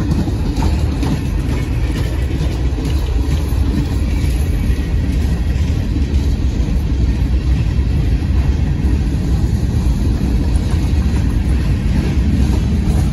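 A CSX freight train's boxcars and covered hopper cars rolling past on the rails with a steady low rumble.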